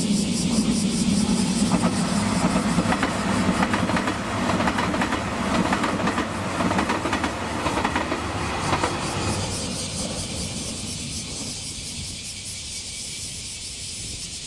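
Diesel train passing: engine drone with wheels clicking over rail joints, loudest over the first nine seconds or so, then fading away as it recedes.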